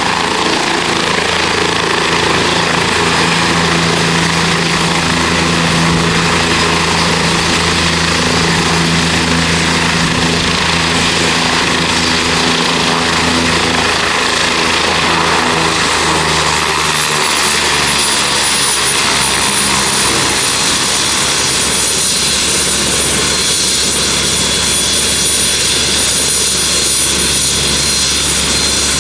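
Turbine helicopter running, a steady high turbine whine over the hum of the rotor. About halfway through, the whine glides down in pitch and the low rotor tones shift, then both hold steady again.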